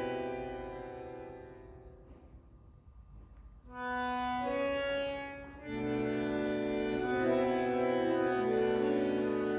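Bandoneon and orchestra playing slow, sustained chords. A held chord fades away over about three seconds to near quiet; a new chord enters about four seconds in and, after a brief dip, swells fuller and holds.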